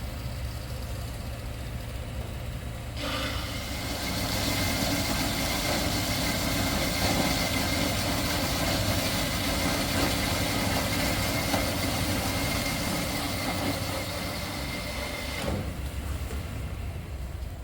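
Steel flat bar being cut by a workshop machine: a steady low hum, with a loud, even cutting noise and a faint high tone that starts abruptly about three seconds in and stops abruptly about twelve seconds later.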